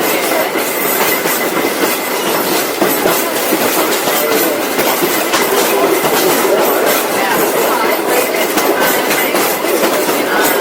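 Heritage train carriage running along the track: a steady rattling noise with many quick clicks of the wheels over the rails.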